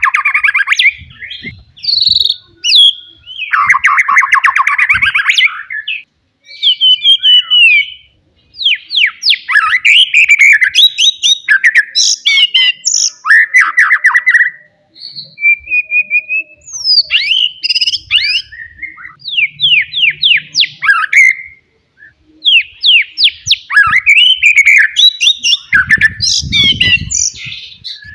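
A wild white-rumped shama singing a loud, varied song of clear whistles, quick sweeping notes and fast buzzy rattles, in phrases broken by short pauses. A low rumble comes in near the end.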